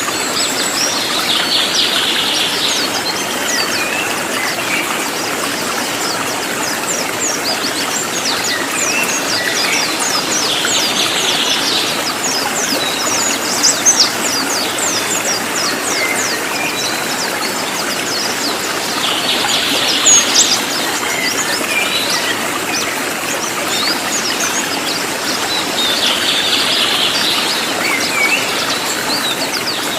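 Cililin songbird singing a dense, rapid string of very short, high, sharp notes with repeated bursts, over a steady background of running-water hiss.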